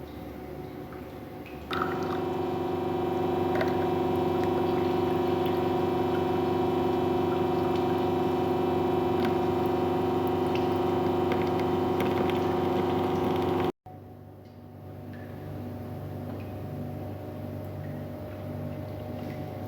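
Espresso machine pump switching on and running with a steady buzzing hum as water flows. It stops abruptly about 14 seconds in, and a quieter steady hum follows.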